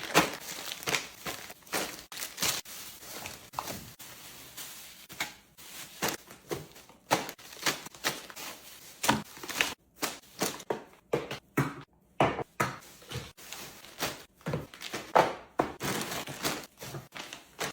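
Groceries being unpacked: a quick run of knocks and thuds as items are set down, with bag rustling between them.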